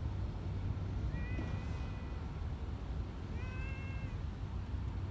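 A cat meowing twice, each meow a drawn-out call of about a second, over a steady low rumble.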